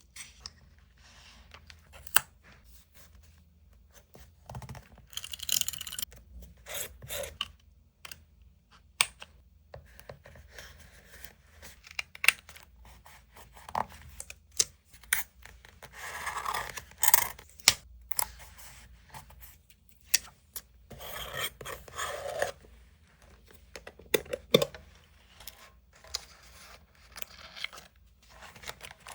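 Paper and stationery being worked by hand for a collage journal page: paper cut, torn, rustled and rubbed in irregular bursts, with sharp clicks between.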